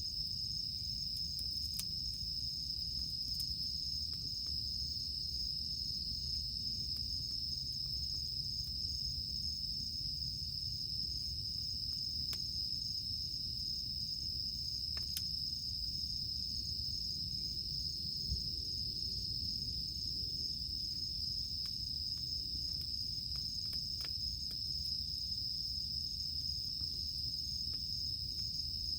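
Cicadas droning in one steady high-pitched chorus, with scattered sharp crackles and pops from a wood campfire.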